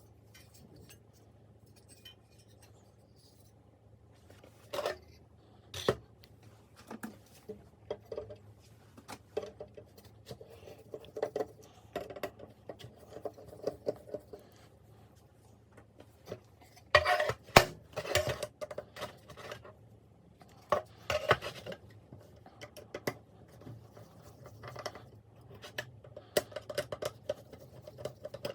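Small hard parts and hand tools being handled, with irregular clicks and clinks. The sounds start a few seconds in and are loudest in a cluster just past the middle.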